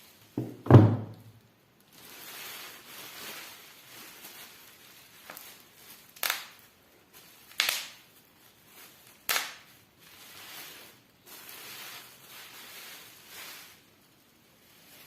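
Handling noises: a loud thump about a second in, then soft rustling and sliding with three sharp clicks in the middle.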